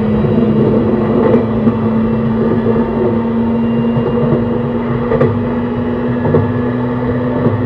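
JR East E131 series 600 subseries electric train with a Hitachi hybrid SiC VVVF inverter, running: a steady traction-motor whine slowly rising in pitch as the train picks up speed. A few sharp clacks of wheels over rail joints cut in.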